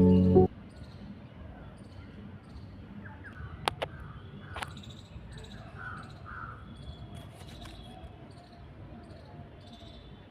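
Background music cuts off about half a second in. Faint outdoor ambience follows, with short chirping calls and a few sharp clicks near the middle.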